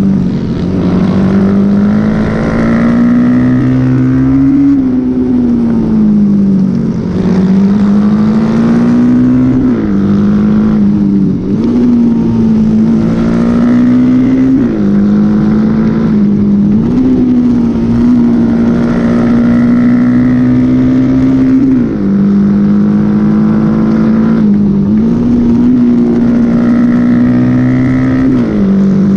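Honda XL motorcycle engine running hard under racing load. The revs climb, then dip sharply several times as the rider shifts gear or eases the throttle, and climb again.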